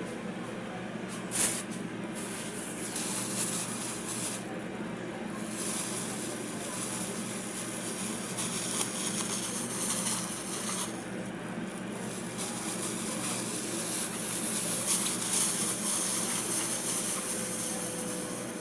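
Steady hissing noise with a faint steady hum underneath, rising and falling slightly in level.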